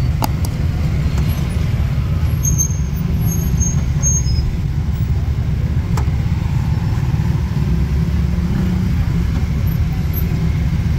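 Steady low rumble of a car on the move: engine and road noise, with a couple of faint clicks.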